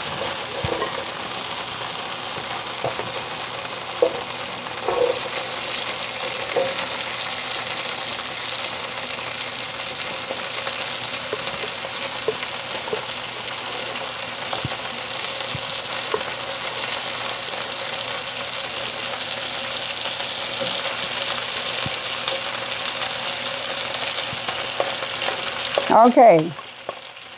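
Chopped cabbage sizzling in hot grease in a cooking pot as it is tipped in, with a few light knocks in the first seven seconds. The sizzle cuts off suddenly near the end.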